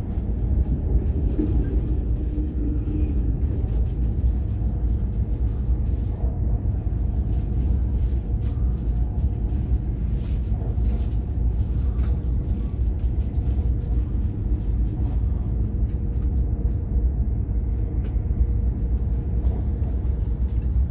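Steady low rumble of an AVE high-speed train running at speed, heard from inside the passenger car.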